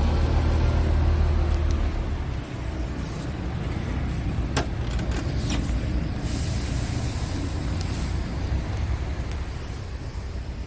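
Scania R truck's diesel engine running with a deep steady hum that drops about two seconds in, two sharp clicks, then a short hiss of compressed air.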